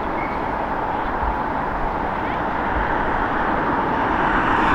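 Jet aircraft engine noise, a steady rush that grows gradually louder.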